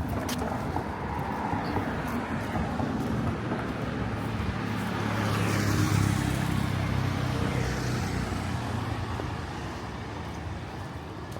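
Road traffic: a motor vehicle's engine passes close by, loudest about halfway through, over steady traffic noise.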